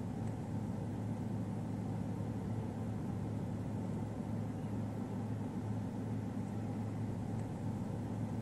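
Car engine idling, a steady low hum with a hiss above it, heard from inside the cabin.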